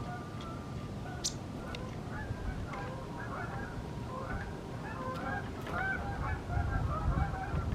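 A flock of geese honking, many short overlapping calls that grow denser after the first couple of seconds, over a low rumble.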